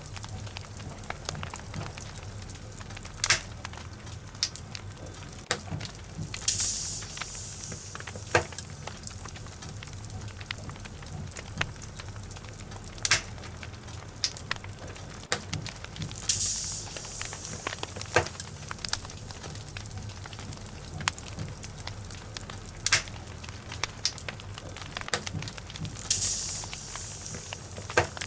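Wood logs burning in a fireplace, crackling with sharp pops at irregular intervals over a low steady hum, and three times a brief hiss.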